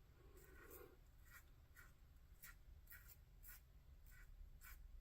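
Faint, short scraping strokes, about two a second: a Merkur 34C safety razor cutting through lathered stubble.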